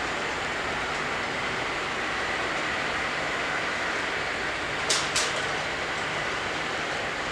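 Roomba robot vacuum running with a steady whir and a faint high whine, with two sharp knocks about five seconds in, a fraction of a second apart.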